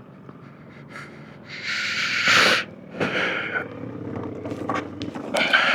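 A person breathing hard into the microphone in a few loud, hissing breaths, the biggest about two seconds in and another near the end.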